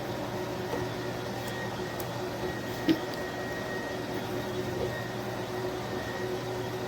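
Cordless dual-motor electric spin mop running steadily: an even motor hum with a higher whine held over it, and a single click about three seconds in.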